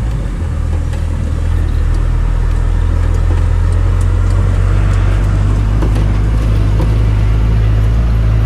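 Skid steer engine running steadily under load with a low, even drone.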